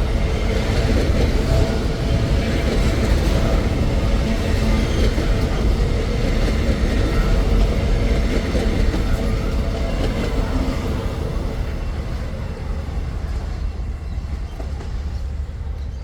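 Freight train's wagons rolling past on the rails, a steady noise heavy in the low end that grows quieter over the last few seconds.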